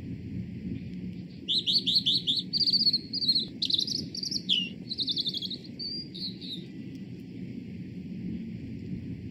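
A songbird singing a varied song of quick repeated high notes and short trills for about five seconds, starting about one and a half seconds in, over a steady low rumble.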